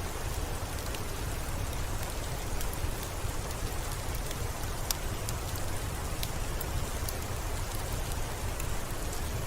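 Steady rainfall, an even hiss over a low rumble, with scattered sharp ticks of individual drops.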